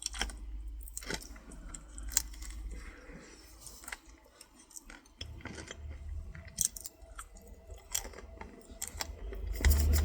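Close-up chewing of a chocolate-coated Twinkie topped with Reese's Pieces, with scattered sharp crunches of the chocolate shell and candy pieces.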